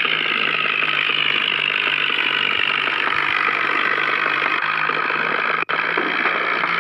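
Mini tractor's engine running steadily: a low even hum under a dense hiss, with a momentary dropout about two-thirds of the way through.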